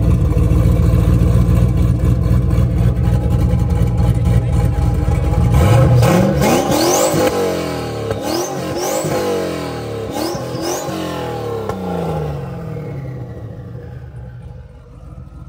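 Turbocharged 1998 Chevy Camaro SS LS1 V8 running just after a start. It idles steadily, then is revved several times, with a high whistle rising on each rev, before settling and fading near the end. The owner says the car makes a weird noise he can't identify.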